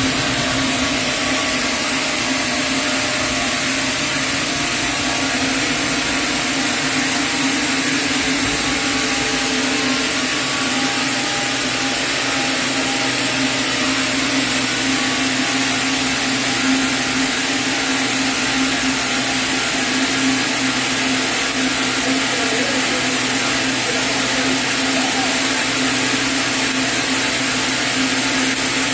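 Sawmill saw running steadily as it cuts through a chinaberry log, a continuous hum with hissing over it.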